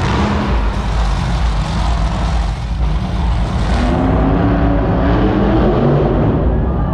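Monster truck's supercharged V8 engine running loud, with the pitch climbing as it revs up in the second half.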